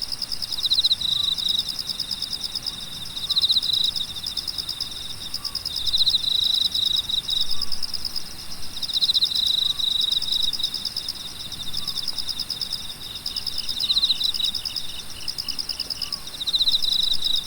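Chorus of crickets and other grass insects chirping in fast high pulses, with a louder trill swelling every two to three seconds. A second, lower pulsing trill joins for a few seconds near the end.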